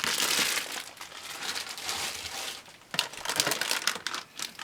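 Plastic packaging crinkling and rustling as resin model-kit parts are handled, in a few bouts with sharper crackles near the end.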